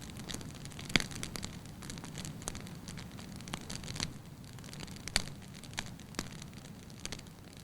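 Wood fire crackling in a fireplace: burning logs pop and snap at irregular intervals over a steady hiss and low rumble of flame, with the sharpest pop about a second in.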